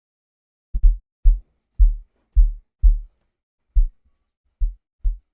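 Amapiano kick drum samples auditioned one after another: about nine separate short, deep thumps with gaps between them, each a slightly different kick.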